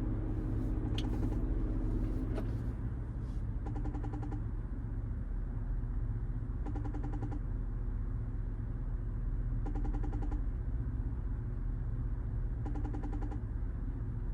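An outgoing phone call ringing on speaker and going unanswered: a short ring tone sounds four times, about every three seconds, over a steady low hum.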